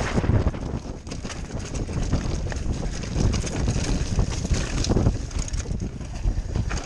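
Wind buffeting the microphone of a camera riding on a mountain bike, with the bike rattling and rumbling over a rough dirt trail.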